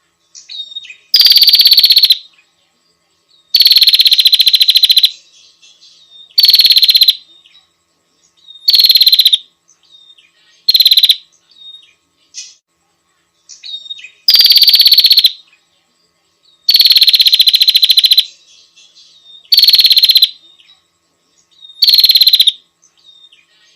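Female prenjak (prinia) calling: nine loud, rapid buzzy trills, each under two seconds and dropping slightly in pitch at the start, with short pauses and faint soft chirps between them. This is the female's call to a male.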